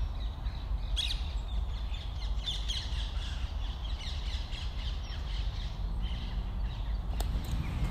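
Birds calling and chirping with many short notes, over a steady low rumble; two brief clicks stand out, one about a second in and one near the end.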